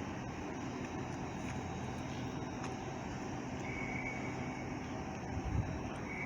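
LNER Azuma train pulling out of the platform: a steady rumble under station background noise, with a thin high tone briefly about four seconds in and again at the end, and a short low thud near the end.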